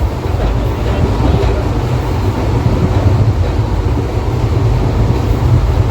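Passenger train running: a steady, loud rumble of the wheels on the track, heaviest in the low end.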